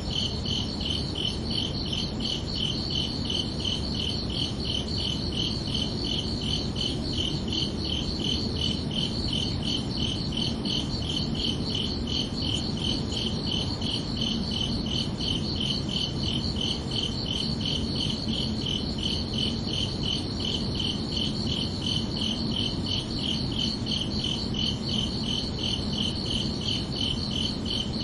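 Crickets chirping steadily in a fast, even pulse, with two pitches going at once, over a low, steady background hum of night ambience.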